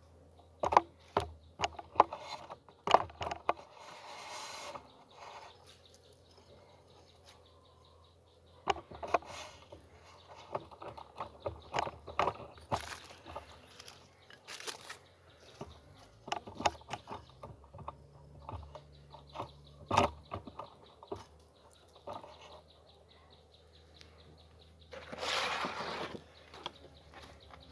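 Wooden beehive boxes and frames being handled: a string of sharp knocks and clicks at irregular intervals, with a longer scraping rustle near the end.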